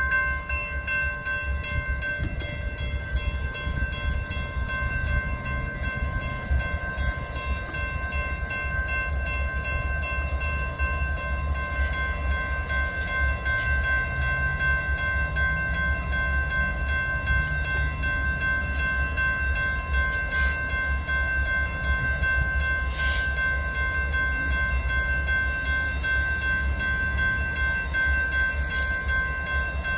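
Train running: a steady low rumble with a constant high-pitched whine held throughout.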